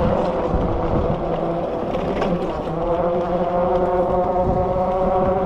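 Freego X2 electric dirt bike riding over rough dirt: a steady electric motor whine that shifts slightly in pitch, over low rumbling tyre and wind noise with a few knocks and rattles from bumps.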